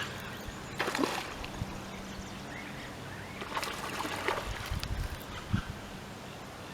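Water splashing in two bursts, about a second in and again around four seconds, as a hooked carp thrashes in the shallows while it is landed.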